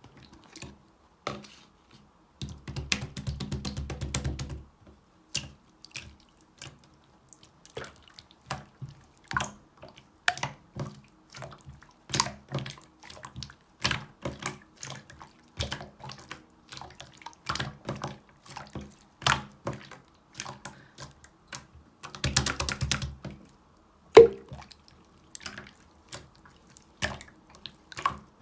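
Clear slime being squished and pressed by hand, making wet clicking pops about once or twice a second. Twice, a few seconds in and again about two-thirds of the way through, the pops run together into a second or two of dense crackling.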